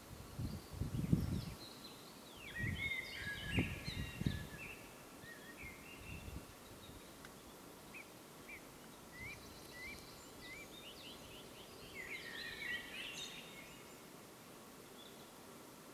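Songbirds singing in bursts of chirps and trills over steady outdoor hiss, with a few low dull thumps on the microphone in the first four seconds.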